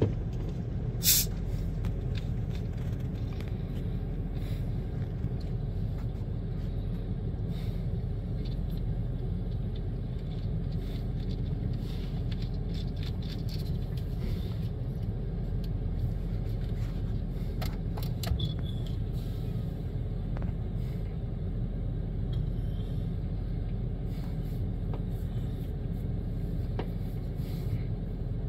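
Steady low rumble of an idling car engine, with a single sharp click about a second in.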